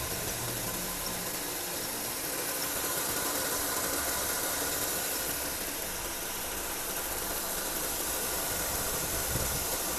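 2015 Honda Civic engine idling with a steady whirring noise from a worn idler pulley bearing on the serpentine belt drive.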